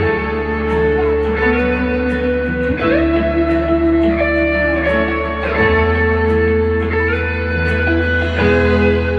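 Live band music with no singing: guitar playing sustained chords over a steady bass line, the chords changing every second or two.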